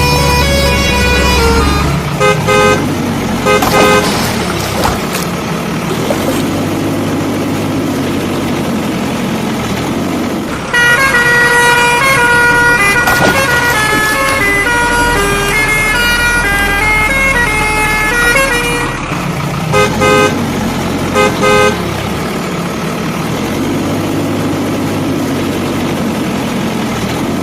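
Added soundtrack of vehicle sound effects: a steady truck engine running, with short horn toots several times, over a stretch of background music with a stepping melody.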